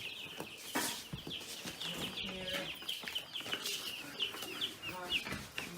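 A flock of young chicks peeping non-stop, a dense chorus of short, high cheeps that each slide down in pitch.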